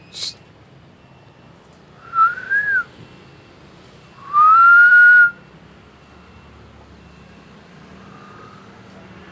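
A sharp click, then two loud, clear whistled notes: the first short, rising then falling, and the second about a second long, rising and held. A faint third whistle comes near the end.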